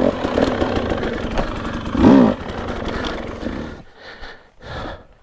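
Dirt bike engine revving hard under the rider, swelling up and back down in pitch about two seconds in, then easing off to quieter blips near the end.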